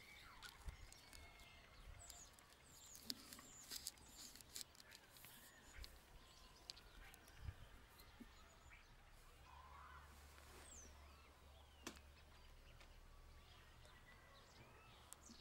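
Near silence: faint outdoor ambience with a few distant bird chirps and occasional soft clicks.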